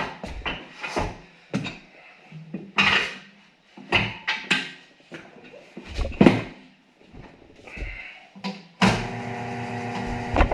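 Irregular clanks, knocks and scrapes of tools working a motorcycle tire onto its spoked rim. About nine seconds in, a motor starts and runs steadily.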